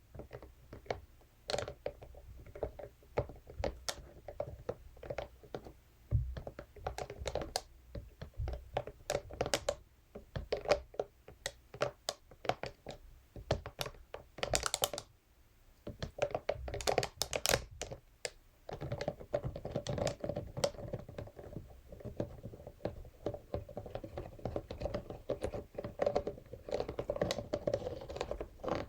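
Scalp massage brush tapped and scratched across a surface as ASMR triggers: many quick, irregular clicks mixed with scratching. It breaks off briefly about halfway through, and from about two-thirds in the scratching turns denser and more continuous.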